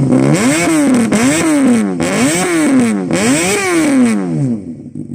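A motorcycle engine revved four times in a row, each blip rising quickly and falling back more slowly, then dropping to idle near the end.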